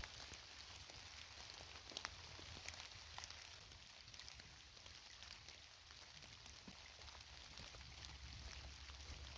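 Faint steady rain, with scattered sharp ticks of drops.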